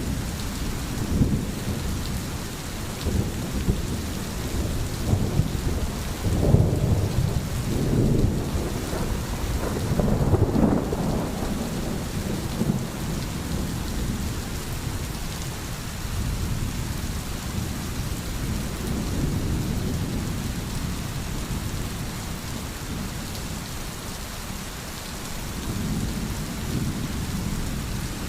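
Steady rain with thunder rumbling in low rolls, the heaviest rolls from about six to eleven seconds in.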